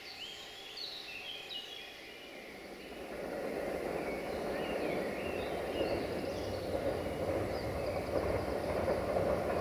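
Birds chirping and whistling, then from about three seconds in the rumble of an approaching train builds and grows steadily louder, drowning the birdsong.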